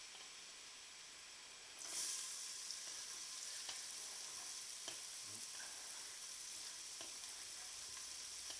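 Shallots frying in hot butter and olive oil in a pan: a low sizzle that turns suddenly louder about two seconds in as the shallots go into the fat, then holds steady with a few light taps.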